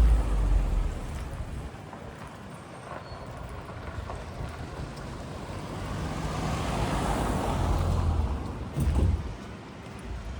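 Road traffic: a car passes on the street, its tyre and engine noise swelling and then fading, while another vehicle's low rumble dies away at the start. A brief low bump comes near the end.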